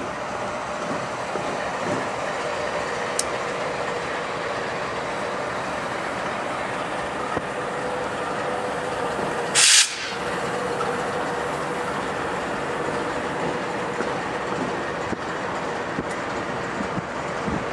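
Freight train hauled by BNSF and Norfolk Southern diesel locomotives running past, heard as a steady rumble of wheels and engines from a car driving alongside. A faint steady whine runs through the middle, and there is one brief, loud hiss about ten seconds in.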